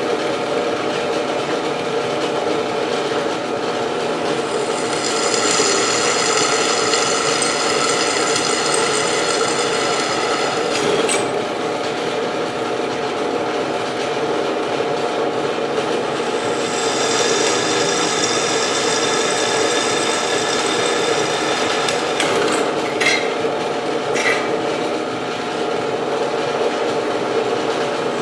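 Electric drill running steadily as the bit cuts through the mount, with a high-pitched squeal from the cutting bit during two stretches of several seconds each and a few sharp clicks.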